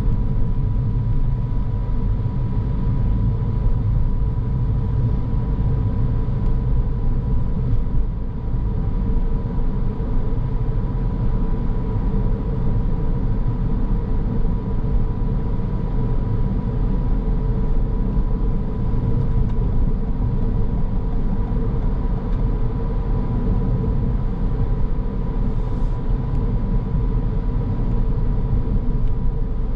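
A car driving at a steady pace: continuous low road and engine rumble, with a faint steady high whine running through it.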